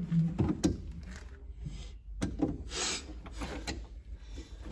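Scattered clicks, light knocks and rubbing from tools and parts being handled during a repair, with a short scraping hiss about three seconds in.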